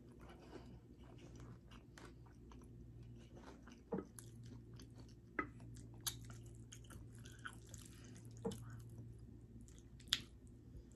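Faint close-up chewing and mouth sounds of someone eating noodles, with scattered small clicks and a few louder sharp clicks spaced a few seconds apart.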